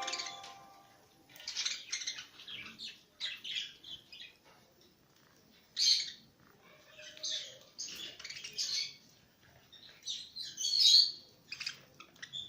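Small pet parrots chirping and twittering in short bursts with brief pauses, with a couple of louder squawk-like calls about halfway through and near the end.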